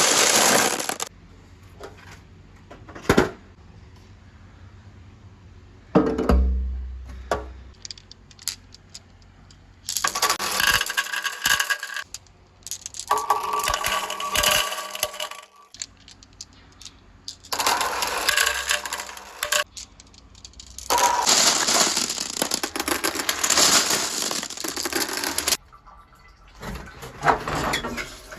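Many marbles rolling and clattering through plastic pipe and gutter track, coming in several dense bursts a few seconds long, with single sharp clicks in between.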